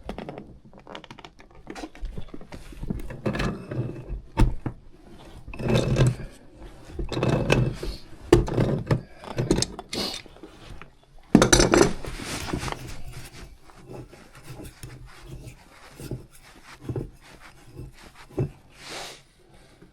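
Hand tools and metal fittings clinking, knocking and rubbing as a furnace's gas valve piping is worked on, with irregular sharp knocks and a few longer scraping rubs.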